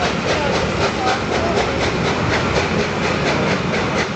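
Passenger carriages of a steam-hauled train rolling past at low speed. Steady wheel and rail noise runs under an even, rapid beat of about five strokes a second.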